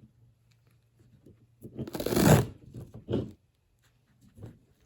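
Self-adhesive vet wrap being pulled and peeled off itself, giving one crackly tearing rasp about two seconds in, followed by a couple of shorter rustles.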